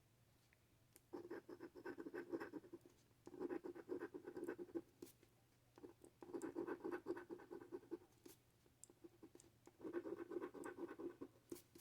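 Coin or fingernail scratching the latex coating off a paper scratch-off lottery ticket, in four short bursts of quick back-and-forth strokes with pauses between.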